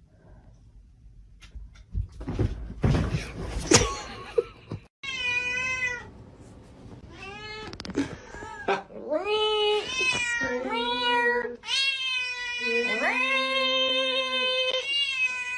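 A cat yowling in a string of long, drawn-out meows, one after another, starting about five seconds in after a few seconds of rustling and knocking.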